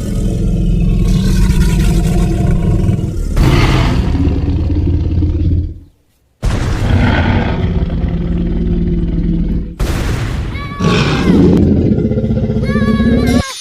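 Loud dinosaur roar sound effects with deep rumbling, in three long stretches, broken by an abrupt cut to silence about six seconds in and a brief dip near ten seconds.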